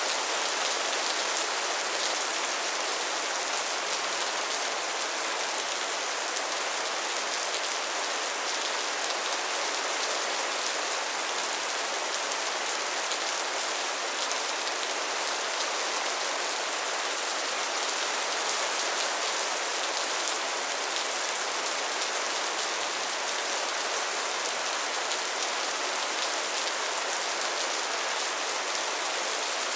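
Steady soft rain falling, an even hiss of many fine drops pattering on a surface.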